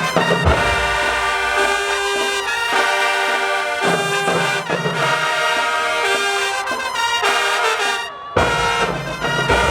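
High school marching band's brass section playing, trombones and trumpets holding loud chords with short breaks between phrases. It cuts out briefly about eight seconds in, then comes back with a heavier low end.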